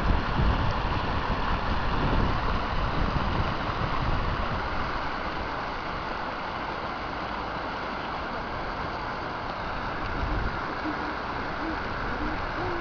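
Rushing floodwater from a flash flood, a steady dense roar of water, with wind buffeting the microphone in gusts near the start and end.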